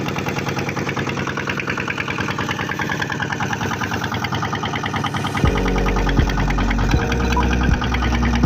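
Fishing boat's engine running with a fast, even pulsing beat; about five seconds in the sound changes abruptly to a lower, steadier throbbing hum.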